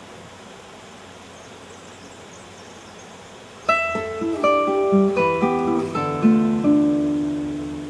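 A steady hiss, then about three and a half seconds in an acoustic guitar begins plucking a short phrase of single notes, the last note left ringing and slowly fading.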